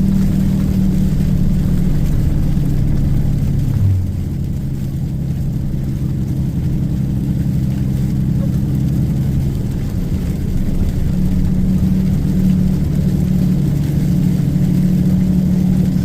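Propane delivery truck's engine running, heard inside the cab: a steady low drone whose pitch drops about four seconds in and climbs back up around eleven seconds.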